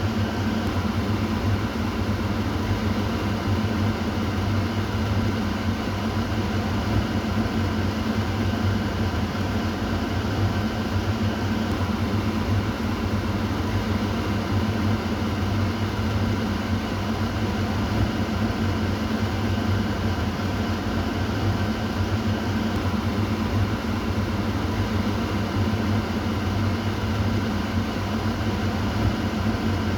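Kitchen exhaust fan running steadily: an even rush of air over a low motor hum, with no change in speed.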